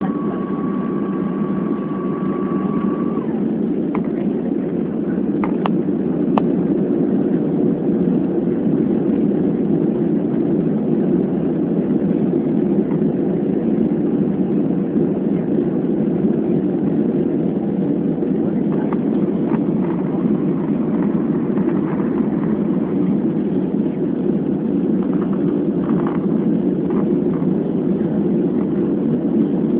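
Steady drone of an airliner's engines and rushing air during the approach to landing, unchanging throughout. A steady high tone sounds for the first three seconds, and a few short clicks come about four to six seconds in.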